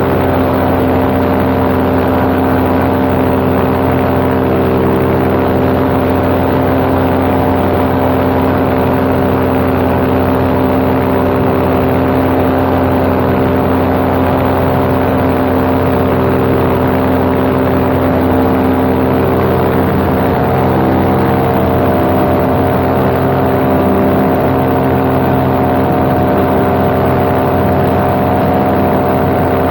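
Paramotor engine and propeller running steadily at cruise power in flight, a constant droning hum. About two-thirds of the way through, its pitch rises slightly as the throttle is opened a little.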